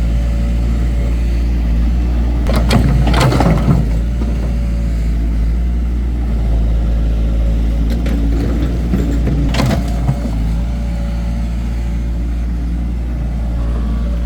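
Excavator's diesel engine running steadily under load. Two bursts of scraping and clanking come about three seconds in and again near ten seconds, typical of the bucket digging into soil.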